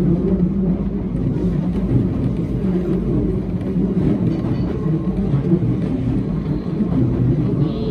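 Electric passenger train running along the track, a steady low rumble of wheels on rails and running gear.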